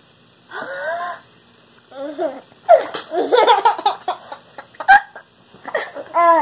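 A baby laughing hysterically in repeated bursts of giggles and belly laughs, with one sharp knock about five seconds in.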